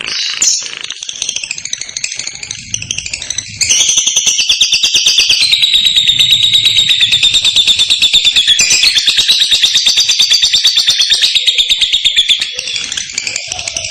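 Lovebird singing its long, clear 'ngekek' song: a few chirps, then from about three and a half seconds in a loud, rapid, unbroken chattering trill lasting about nine seconds, easing back to softer chirps near the end.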